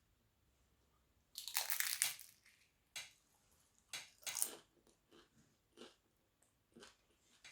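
Close-miked eating of crunchy food: a loud crunching bite about a second in, followed by several shorter crunches as it is chewed.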